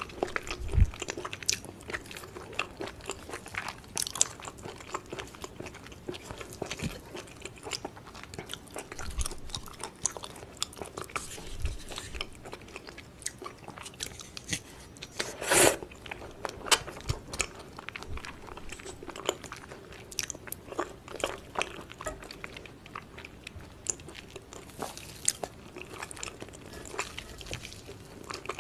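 Close-miked eating of raw beef tartare: wet chewing, smacking and biting, with one louder mouth noise about halfway through.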